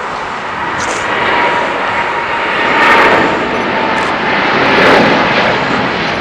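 Jet airliner's engines passing close by, a loud rushing noise with a faint whine that swells and peaks about three seconds in and again near five seconds.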